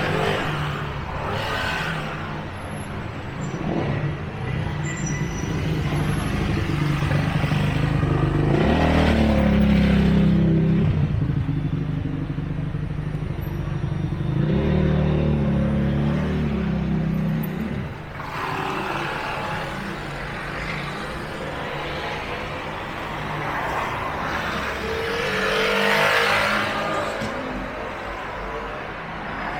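Street traffic: motor vehicles passing, with two spells of deep engine rumble about a third of the way in and around the middle, and rushing pass-bys later on.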